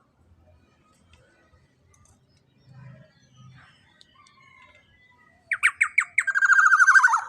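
Young black-naped oriole (kepodang) calling: after some faint scattered sounds, four short harsh notes about five and a half seconds in, then a loud rasping, buzzy squawk lasting about a second.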